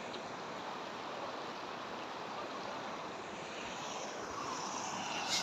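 Fast-flowing floodwater of a rain-fed river rushing steadily, with one brief sharp click just before the end.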